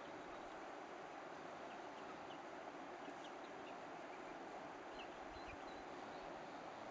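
Faint, scattered short high chirps from small birds over a steady outdoor hiss, the chirps coming most often in the middle of the stretch.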